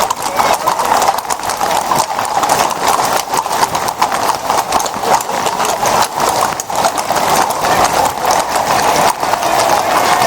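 Hooves of a group of ridden horses clip-clopping on a cobbled street, a dense, uneven patter of hoof strikes.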